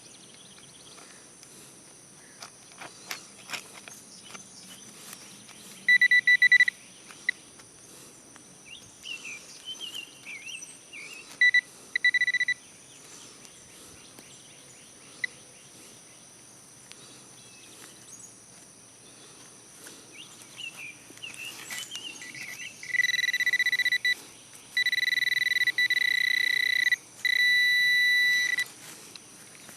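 Handheld metal-detecting pinpointer sounding a steady high-pitched tone in short bursts as it picks up a buried target, with a longer run of tones near the end, the last one pulsing rapidly. Insects buzz steadily in the background, and there are a few clicks and scrapes a few seconds in.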